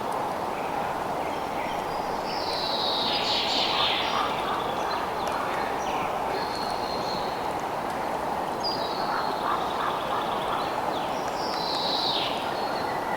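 Outdoor nature ambience: a steady rushing noise underneath, with scattered short animal calls. Two louder calls fall in pitch, one a few seconds in and one near the end.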